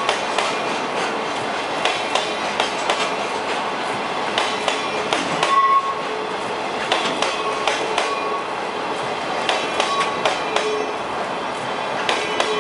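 Hoki 10000 coal hopper wagons of a long freight train rolling past. Their wheels click over the rail joints in irregular groups, with brief squeals now and then.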